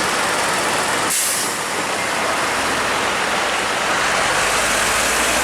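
Heavy truck passing close by on the highway with loud road and engine noise, and a short high hiss of air about a second in.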